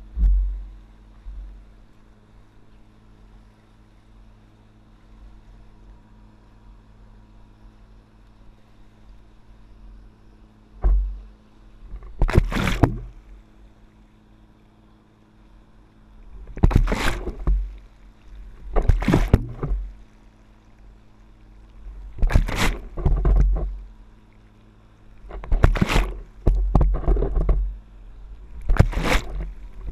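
Water splashing and rushing in repeated bursts of about a second each, every two to four seconds, around a stand-up paddleboard riding a boat's wake, over a steady low hum.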